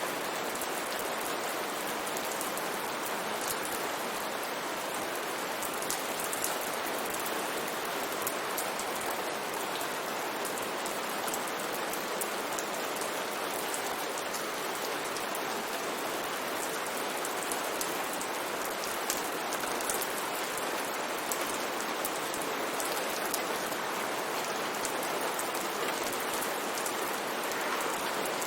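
Steady rain shower falling: an even hiss with scattered sharper ticks of single drops.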